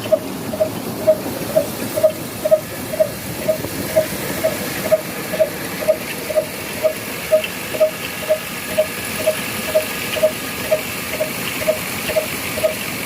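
Old Ruston diesel engine running steadily while driving a flour mill, its slow, even beat at about two firing strokes a second, over a constant hiss of the running machinery.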